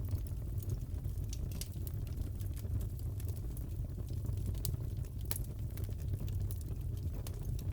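Crackling log fire: a steady low rumble of burning with scattered sharp pops and snaps, a few of them a little louder in the middle.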